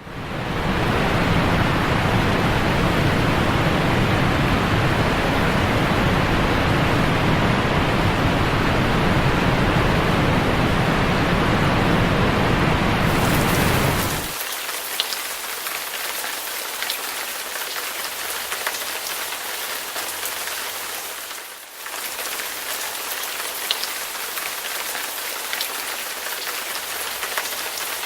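Heavy rain, a dense rushing hiss with a deep low end. About halfway through it changes abruptly to lighter, hissier rain with scattered drop ticks, and it briefly dips once near the end.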